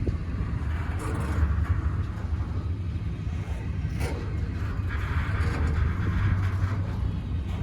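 Steady low vehicle rumble, with a few sharp knocks over it.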